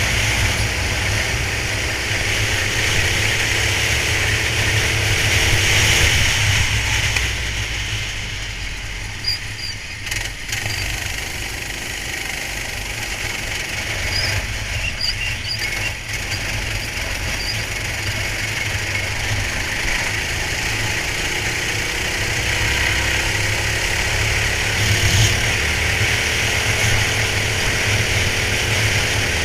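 Kart engine heard onboard, running under load, its revs climbing, then falling away about seven seconds in and building again from about twenty seconds in.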